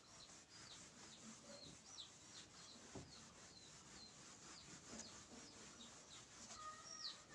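Faint, high bird chirps repeating about twice a second, with a lower two-note call near the end.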